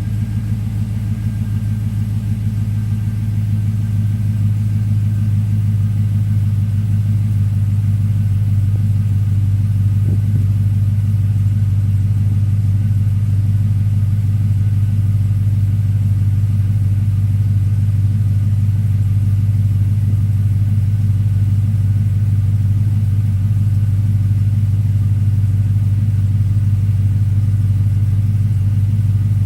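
A GM L33 5.3L V8 idling steadily after a cold start, heard through a Magnaflow 12588 muffler exhaust with a deep, even exhaust note.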